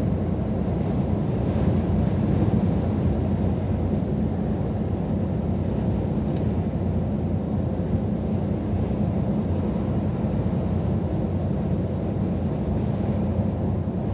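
Scania R500 truck under way: a steady, even low drone of engine and road noise.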